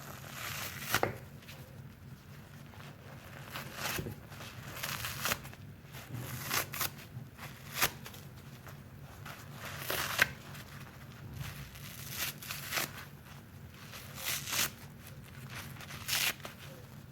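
Soapy sponge squeezed over and over, each squeeze a short wet hiss of suds, coming irregularly about once every second or so.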